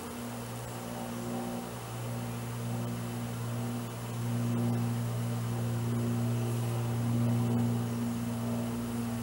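Honeybee swarm buzzing as a steady, wavering hum of many bees in flight, growing louder about halfway through.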